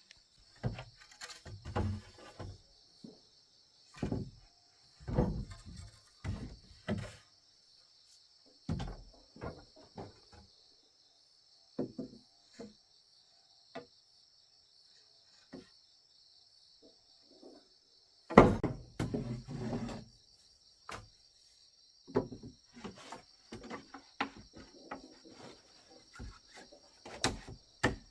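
Irregular knocks and thuds of wood being handled and struck, with a louder cluster about two-thirds of the way in, over steady insect chirring.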